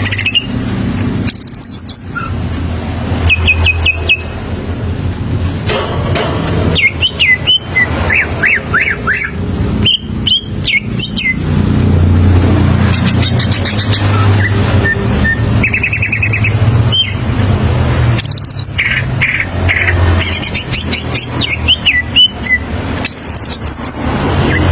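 Green leafbird (cucak ijo) singing its standard song: bouts of quick trills, chirps and sliding whistled notes with short pauses between, over a steady low rumble.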